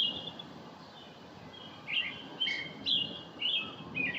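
Songbirds chirping: short, clear notes, one at the start, then a quick run of five or six from about two seconds in.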